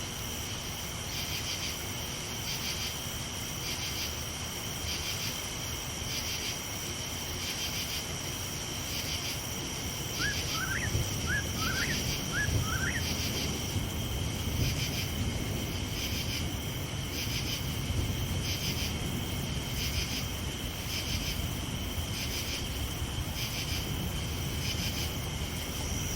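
Night crickets trilling steadily, pulsing about once a second. A short run of five quick rising chirps comes about halfway through, and a low rumble swells underneath from about the middle on.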